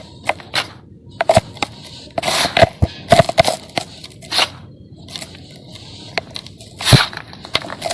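Dried sand-cement chunks being crumbled, giving irregular sharp cracks and short gritty crunches. The busiest stretch comes about two to three and a half seconds in, and there is a loud crack near the end.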